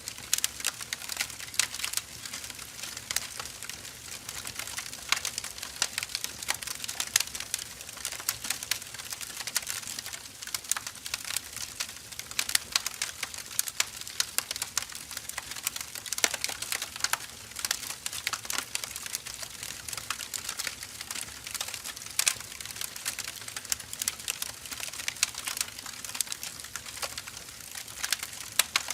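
Burning firewood crackling: a dense, irregular stream of small pops and sharp snaps over a soft hiss.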